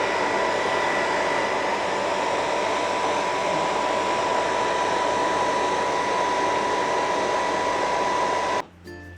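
Hair dryer running steadily with a constant whine, used to dry a wet kitten; it cuts off suddenly near the end.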